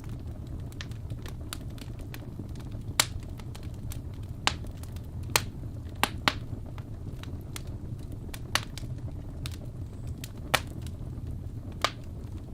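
Wood fire in a fireplace crackling: a steady low rumble with fine ticking and about eight sharp, irregularly spaced pops.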